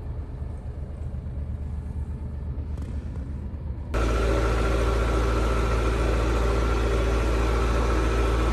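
Truck driving: a low steady engine and road rumble. About four seconds in it switches abruptly to a louder, fuller drone with steady humming tones.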